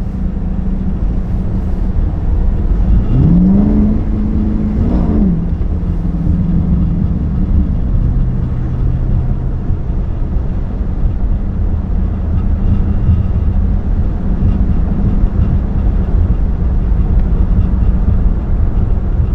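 Straight-piped 5.7-litre Hemi V8 of a 2022 Chrysler 300 S running under way, a loud steady rumble. About three seconds in, the engine note rises, holds for a couple of seconds, then falls away.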